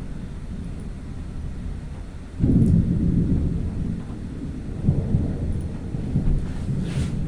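Thunder from a lightning storm: a low rumble that breaks in suddenly about two and a half seconds in and rolls on, swelling again about five seconds in, over wind noise on the microphone.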